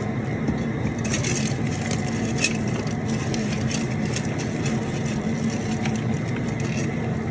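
Propane jet burner under a crawfish boil pot running with a steady low rush, the pot at a boil. Scattered light clicks and rattles sound over it about a second in and again near two and a half seconds.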